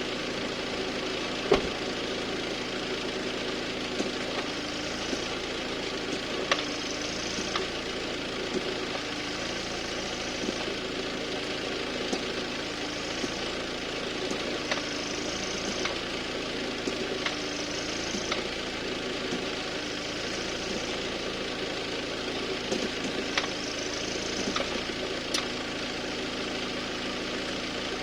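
Audi A6 C7 2.0 TDI four-cylinder diesel idling steadily, with a few sharp, irregular clicks from its S-tronic dual-clutch gearbox. The owner hears this clicking when selecting R or D and on some downshifts, and does not know its cause.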